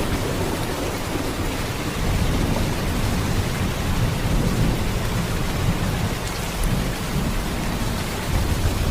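Heavy rain falling in a steady downpour, with a strong low rumble underneath that swells and eases slightly.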